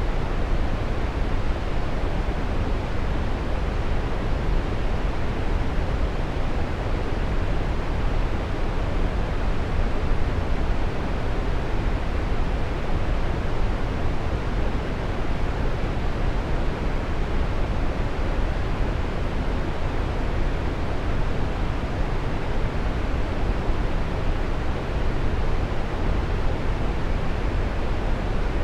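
Waterfall: a steady, unbroken rush of falling water, deep and even.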